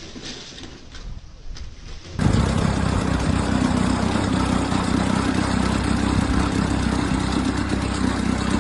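Engine of a heavy vehicle or machine running loudly at a steady speed, coming in suddenly about two seconds in after a quieter stretch of mixed noise.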